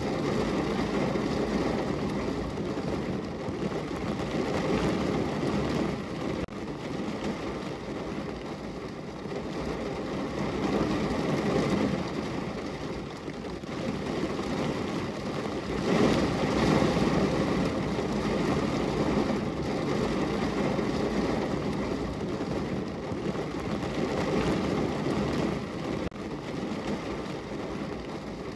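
Steady rain falling on a window, a dense, even hiss that swells and eases every few seconds.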